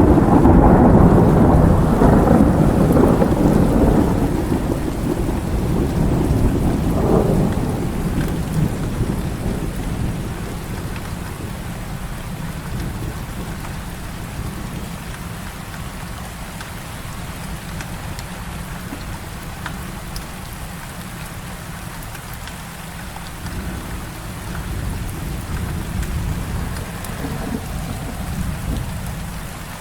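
Heavy rain falling steadily, with a peal of thunder that breaks just as it begins, rumbles loudest for the first few seconds and fades out by about ten seconds in; a fainter roll of thunder swells up near the end.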